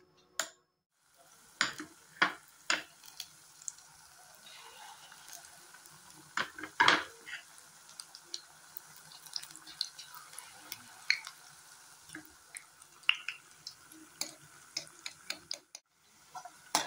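Besan pakoras frying in hot oil: a steady sizzle starting about a second in, with scattered sharp clicks and taps of a spoon against the batter bowl and the pan.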